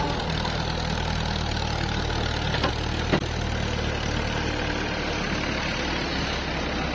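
Heavy diesel engine idling steadily, with two sharp knocks about two and a half and three seconds in.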